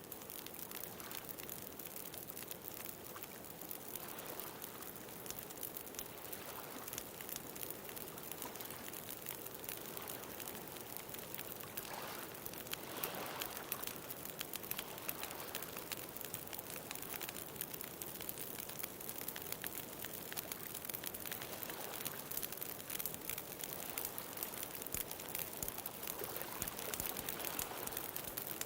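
Bonfire crackling with many small pops over the steady wash of ocean waves; the surf swells up about twelve seconds in and again near the end.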